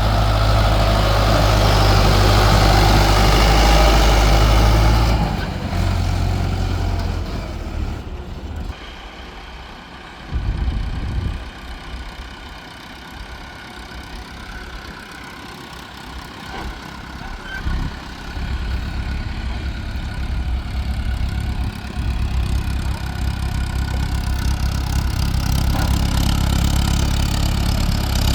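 Diesel tractor engine pulling hard under load for about five seconds as it hauls a loaded mud trolley up a ramp, then dropping away suddenly. Quieter, uneven engine running with intermittent low rumbles follows, and a steady engine note builds again in the last few seconds.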